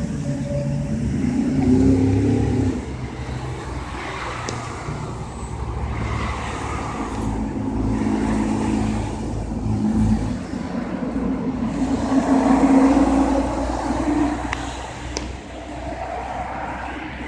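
Road traffic: cars passing one after another, their engine and tyre noise swelling and fading several times.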